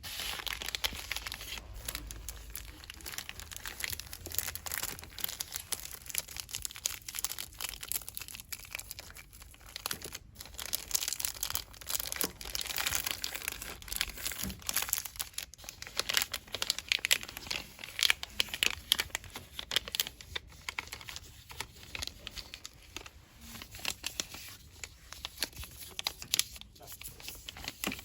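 Fast, continuous crinkling and rustling of cosmetics packaging handled by fingers, dense with small crackles and clicks.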